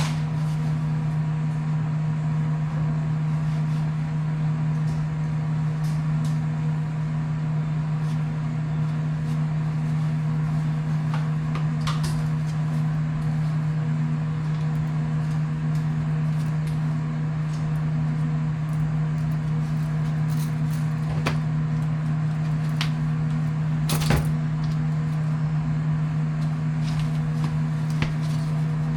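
Electric motor of dryer vent cleaning equipment running with a steady low hum, with a few light knocks, the clearest about 12 and 24 seconds in.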